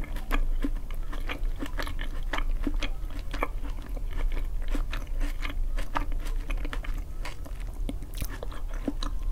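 Close-miked chewing of baked eggplant with cheese: soft, wet mouth clicks and smacks about two to three a second.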